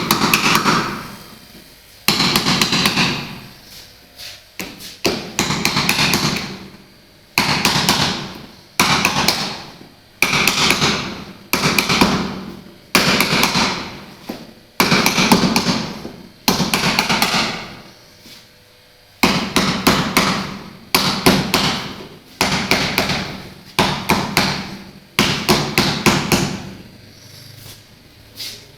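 Repeated hammer tapping in quick bursts of knocks, about one burst every second and a half, while the top panel of a refrigerator is being opened.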